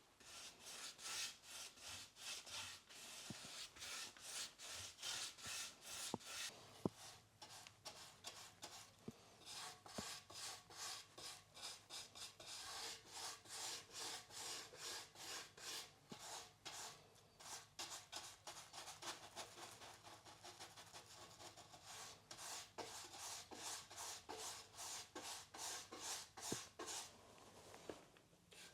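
Repeated back-and-forth rubbing strokes against a surface, about two a second, running on evenly.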